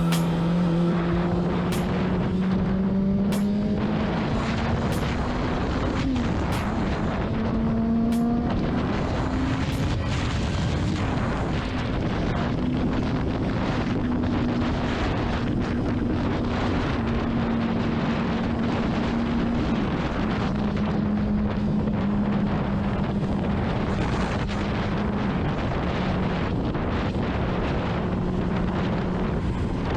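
Honda CBR600RR inline-four engine under way, its pitch climbing over the first ten seconds and then holding fairly steady, under a heavy rush of wind noise on the rider's microphone.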